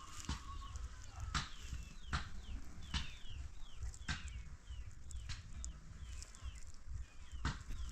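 Chicks peeping over and over, short high calls that slide down in pitch, with scattered sharp knocks among them.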